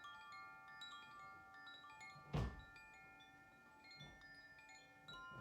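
Wind chimes ringing softly, many light strikes at scattered pitches overlapping as they sustain. A single soft thump about two and a half seconds in.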